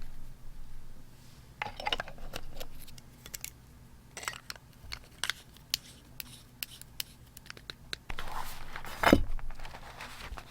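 Scissors and paper being handled while journaling: scattered small clicks and snips with short rustles of paper, then a longer, louder rustle about eight to nine seconds in.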